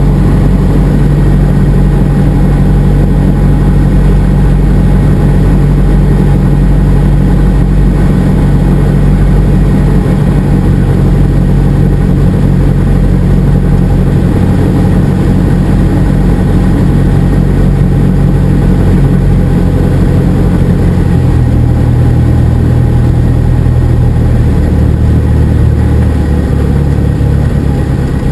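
Cessna 172SP's four-cylinder Lycoming engine and propeller running steadily at power, a loud even drone. About three-quarters of the way through the pitch steps down, and again a few seconds later, as engine speed is reduced.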